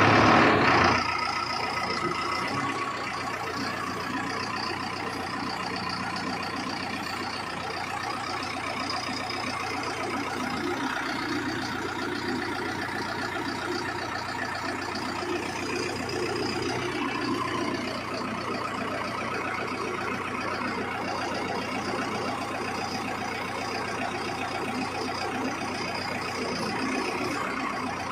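ACE backhoe loader's diesel engine running steadily. It is louder for about the first second, then settles to an even level.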